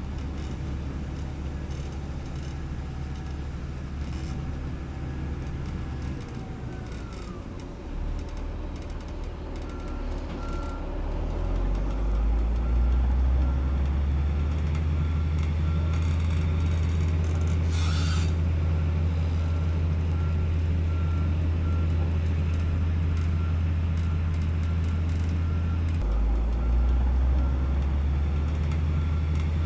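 Komatsu GD555 motor grader's diesel engine running under load and growing louder about a third of the way in, with a reversing alarm beeping repeatedly from then on. A short sharp hiss comes about two-thirds of the way through.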